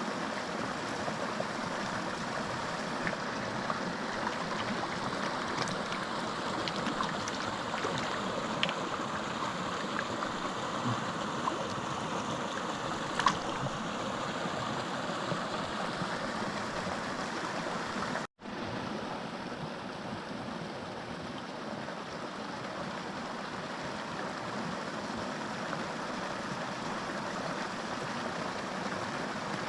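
Small mountain creek running with a steady rush of water, with a few faint ticks, the loudest about thirteen seconds in. The sound cuts out for an instant about eighteen seconds in and resumes.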